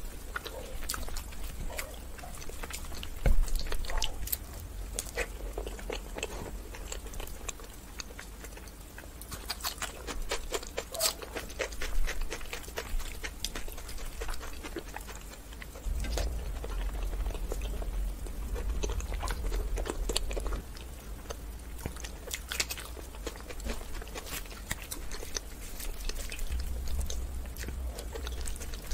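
Close-miked eating sounds: wet chewing of luchi (puffed fried flatbread) and meat curry, with dense irregular clicks and small crackles of fingers tearing the bread and squishing through the gravy. A sharper thump comes about three seconds in.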